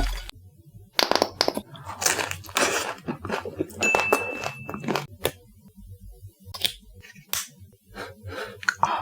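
Crispy fried chicken being bitten, torn and chewed close to the microphone: irregular crunching and crackling bursts with sharp clicks.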